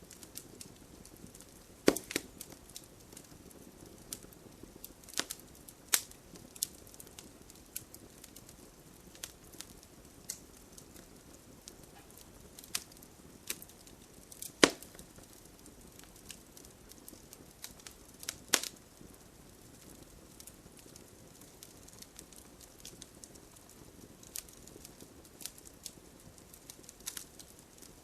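Wood campfire crackling: irregular sharp pops and snaps over a soft steady hiss, with a few louder pops about two, six, fifteen and eighteen seconds in.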